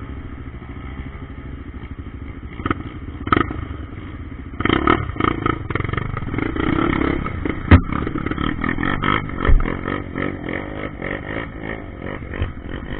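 Trail motorcycle engine running, its note rising and falling in repeated revs from about four and a half seconds in, with a few sharp knocks and clatters.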